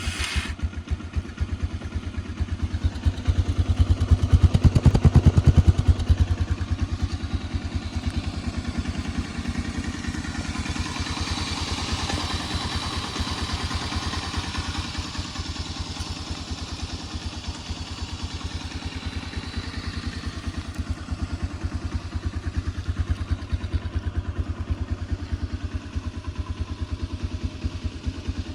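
Hartford VR motorcycle's engine running with a rapid, even train of firing pulses, loudest a few seconds in.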